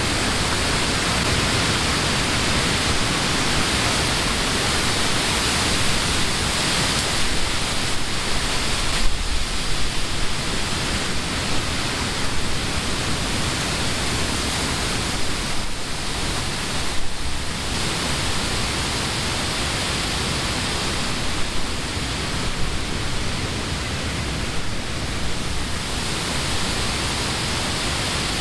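Summer wind blowing through leafy trees: a continuous rustling hiss of leaves that swells and eases slightly with the gusts.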